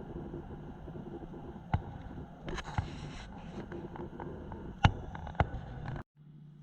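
Steady low mechanical hum with a few sharp knocks and clicks and a brief hiss; about six seconds in it cuts off abruptly and a quieter steady hum takes over.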